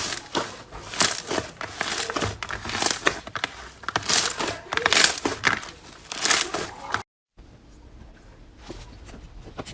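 Crisp crackling and crunching of a brittle-soft material being crushed and cut in quick, uneven strokes. About seven seconds in, it breaks off and gives way to quieter, finer crackles.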